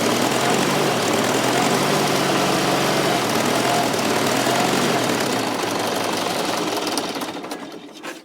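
Fordson Super Major's 3.6-litre four-cylinder diesel engine running steadily, low on power. The mechanics put this down to a dead number 4 cylinder with no compression, probably leaving it running on three cylinders. The engine sound dies away near the end.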